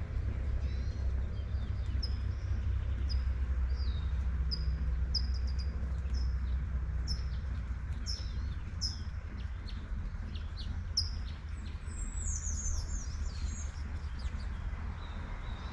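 A songbird chirping: short, high, falling notes about once a second, then a quicker jumble of song near the end. Underneath are a steady low rumble and the even hiss of light rain.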